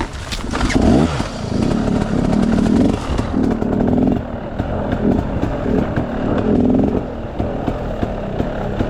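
Enduro dirt bike engine revving in short, repeated throttle bursts, rising and falling about once a second, with a quick rev sweep near the start.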